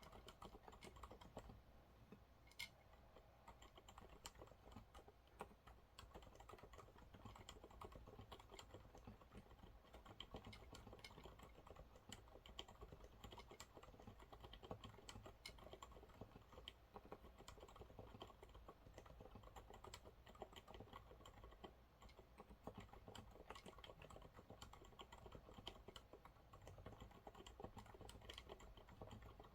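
Continuous, fast typing on a Monsgeek MG108W mechanical keyboard with TTC silent brown switches. The keystrokes are quiet and irregular and come several a second.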